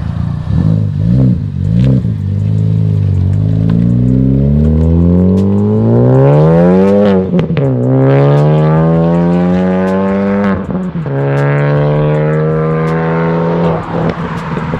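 Ford Focus ST's turbocharged four-cylinder, catless and running an AWE Track Edition exhaust with a Vibrant Ultra Quiet resonator, making a full-throttle pull. After a few quick revs, the engine note climbs steadily with two gear shifts, a sudden drop in pitch each time, and eases off near the end.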